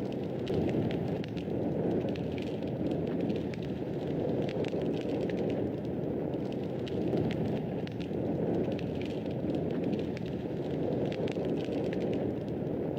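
Fireplace fire crackling: a steady low rush of flames with frequent small, sharp pops and snaps at irregular intervals.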